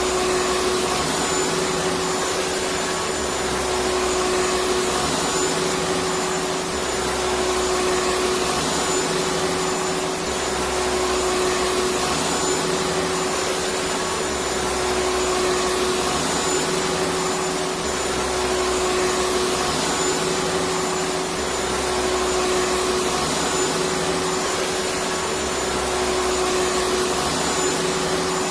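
Electric vacuum cleaner running steadily: an even rushing whoosh with a constant motor hum, and a faint low pulse that comes back every two to three seconds.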